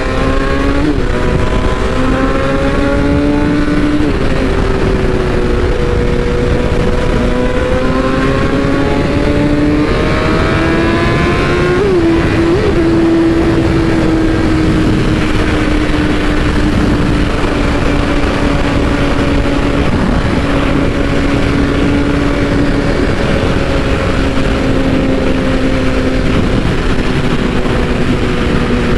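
BMW S1000RR's inline-four engine running at high speed, its note climbing in the first few seconds, climbing again to a peak a little before the middle, then holding and easing slowly down, under heavy wind rush on the microphone.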